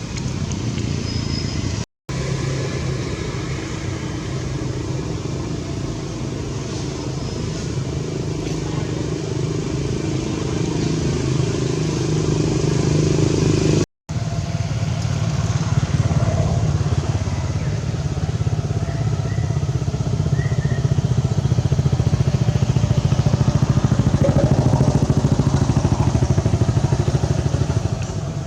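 A small motor engine, like a motorcycle's, running steadily throughout. The sound cuts out briefly twice, about two seconds in and near the middle.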